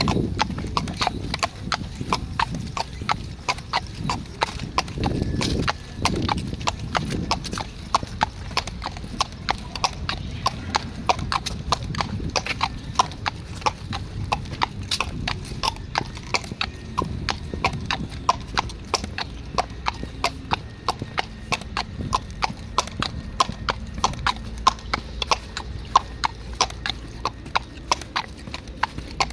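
Horse's hooves clip-clopping at a walk on a hard surface, an even beat of about two to three footfalls a second.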